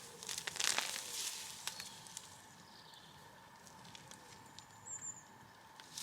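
Rustling and crackling of garden plants and soil being handled, busiest in the first two seconds and then fainter, with a few light clicks later.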